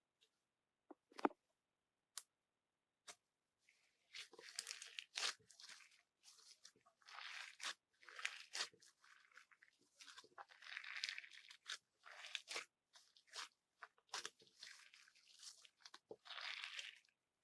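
Irregular crunching, crinkling noises in quick clusters, after a few scattered clicks.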